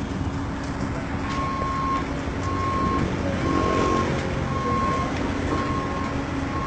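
Reversing alarm on a heavy diesel vehicle beeping about once a second on one steady pitch, over a diesel engine running. The engine swells briefly near the middle.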